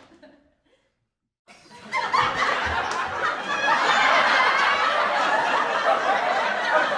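A crowd laughing, starting after about a second and a half of silence and building to a steady, full laugh from many people.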